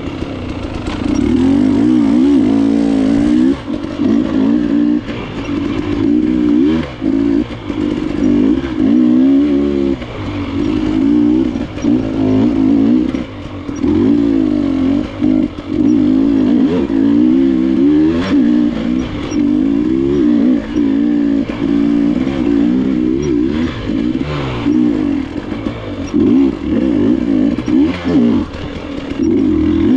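Enduro dirt bike engine ridden on a wooded trail, its revs rising and falling constantly as the throttle is opened and rolled off, with frequent brief drops in loudness.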